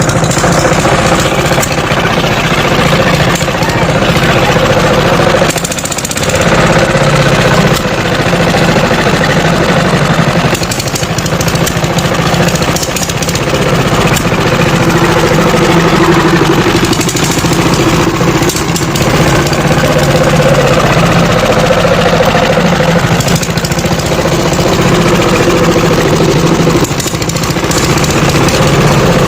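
Power tiller engine running steadily with a hard, knocking beat, dipping briefly about six seconds in and then carrying on.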